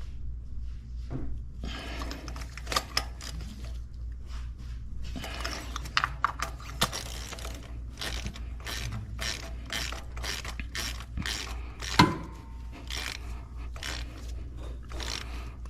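Socket ratchet clicking in short runs as spark plugs are tightened, with a single louder metallic clank about twelve seconds in.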